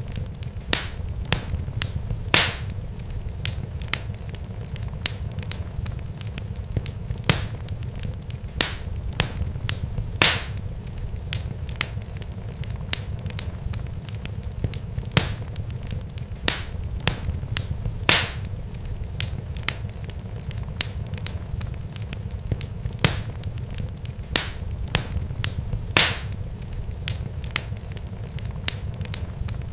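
Irregular crackling and popping, sharp pops scattered a few times a second with some louder ones, over a steady low rumble.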